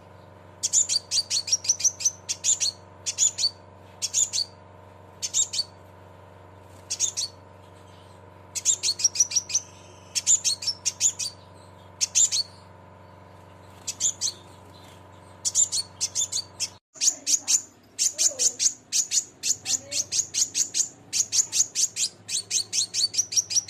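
Scarlet minivet (sepah raja) giving its 'cret cret' call: rapid, high chirps in bursts of several notes, which come closer together in the last several seconds. A steady hum runs underneath and stops abruptly about seventeen seconds in.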